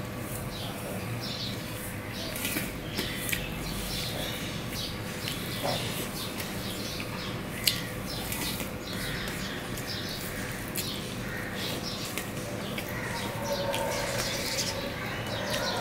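Close-up chewing and wet mouth and lip-smacking sounds of a person eating rice and egg curry by hand, with scattered small clicks and one sharp click about halfway through, over a faint steady hum.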